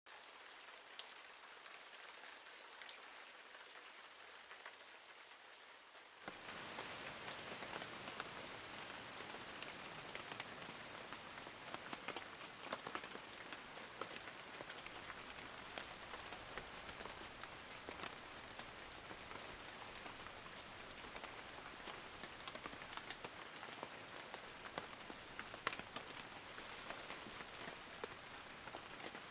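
Steady rain falling, with scattered individual drop hits. It starts soft and thin, then swells fuller and louder about six seconds in.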